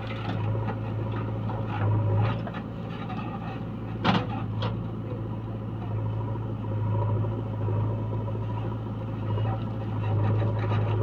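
Heavy diesel engine running steadily, with one sharp clank about four seconds in.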